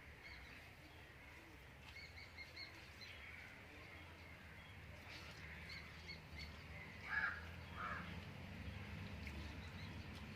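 Faint birds chirping, with two louder, harsher calls about seven and eight seconds in, over a low hum that grows toward the end.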